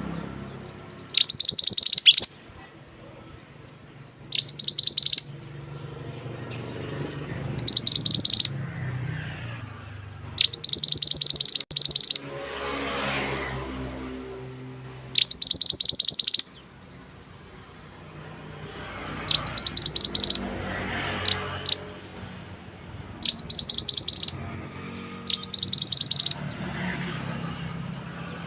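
A small songbird known in Indonesia as the mantenan sings loud, high, rapid trills of about a second each, repeated nine times, with faint low background hum between the phrases.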